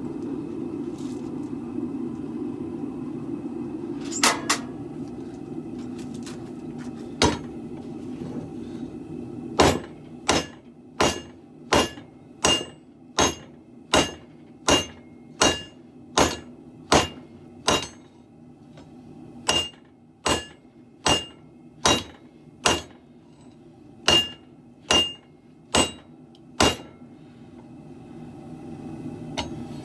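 Hammer blows on a sword blade over an anvil: a few scattered strikes, then a steady run of about one and a half blows a second, many with a bright ringing note, a short break, and a second run. A steady low rumble fills the first third before the hammering starts.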